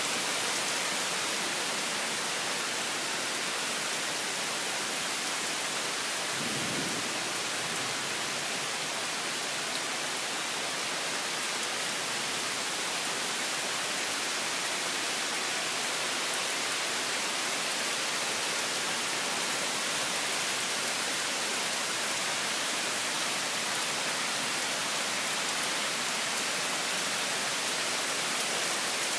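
Torrential rain falling in a steady, dense hiss, with a brief low rumble about six and a half seconds in.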